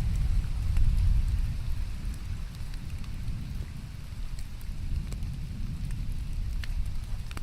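Rain falling, with scattered drops ticking sharply and a deep low rumble under the hiss, loudest about a second in.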